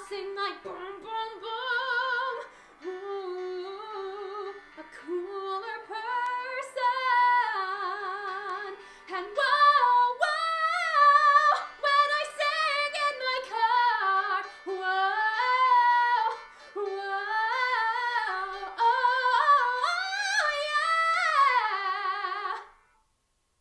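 A woman singing wordless riffs and runs, unaccompanied, with wide vibrato and swooping slides. The song's closing vocal riff breaks off about a second before the end.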